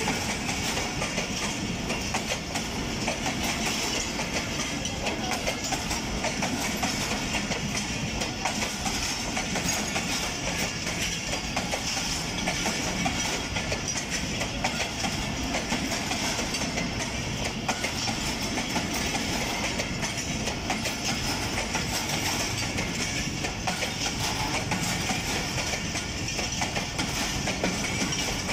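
Pakistan Railways passenger train coaches rolling past close by: a steady rumble of steel wheels on the track, with a continuous rapid clatter of wheels over the rail joints.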